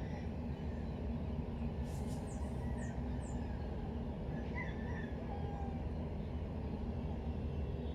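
Steady low background rumble with a few faint, quick, high bird chirps about two to three seconds in.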